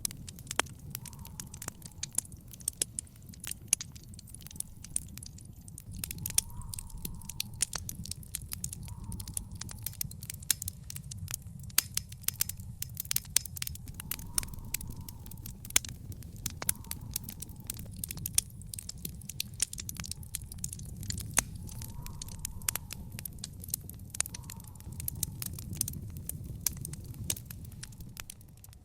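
Wood fire in a fire pit crackling, with frequent sharp pops and snaps of varying strength over a low, steady rumble of the flames.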